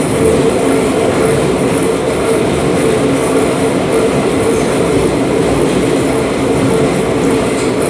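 DB class 472 S-Bahn electric multiple unit heard from inside the car while in motion: steady running noise of wheels and traction equipment.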